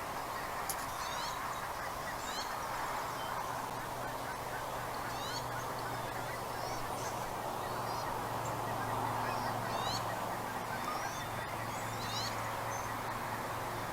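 Birds giving many short, high, rising chirps, in scattered groups, over a steady background hiss with a faint low hum.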